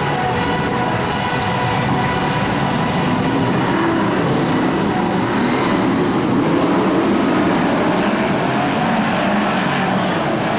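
A pack of BriscaF1 stock cars' V8 engines running together on the oval, a loud, steady mass of engine noise.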